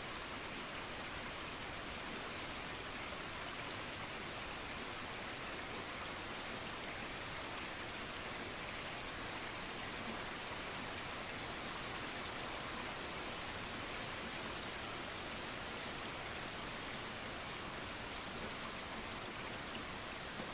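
Steady rain falling and pattering on surfaces, an even hiss with scattered small drop ticks.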